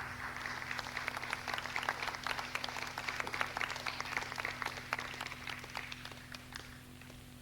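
Audience applauding, the clapping dying away near the end, over a steady low hum.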